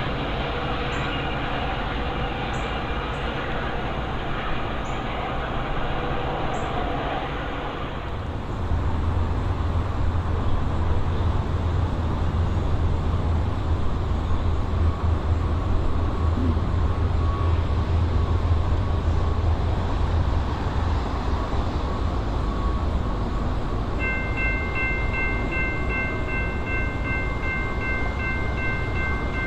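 Train passing on the line, with a steady rumble that grows heavier about eight seconds in. Near the end a multi-chime air horn sounds one long, steady chord.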